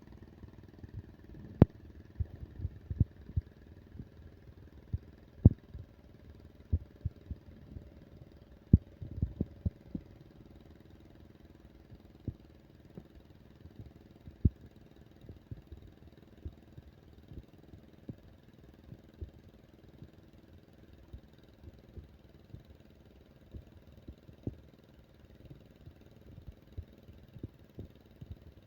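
Tractor engine running steadily, with many sharp irregular knocks and clanks over it that are most frequent in the first ten seconds and sparser later.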